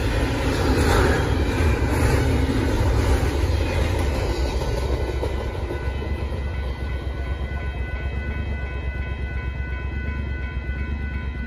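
A Union Pacific intermodal freight train rolling past a grade crossing, its wheel rumble and rattle fading over the first half. The crossing's warning bell rings steadily throughout and stands out more as the train noise dies away.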